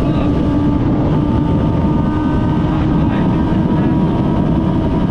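Kawasaki ZX-6R 636 inline-four motorcycle engine running at a steady cruise, with heavy wind rush over the microphone.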